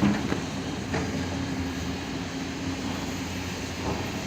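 Heavy earthmoving machinery's diesel engine running steadily, with a few short knocks in the first second.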